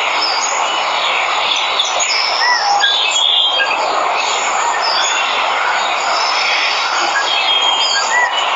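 Waterfall rushing steadily, with many birds chirping and whistling over it.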